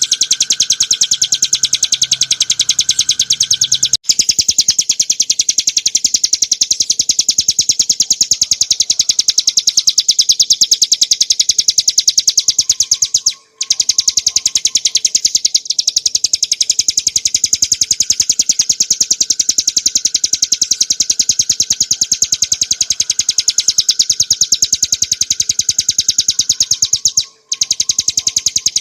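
Ciblek gunung (mountain prinia) singing its drill-like 'ngebren' trill: a rapid, unbroken series of sharp high notes, breaking off briefly twice.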